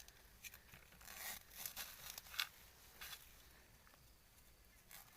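Faint, irregular rustling and crackling of leaf litter and undergrowth being disturbed, a few sharper crackles among them.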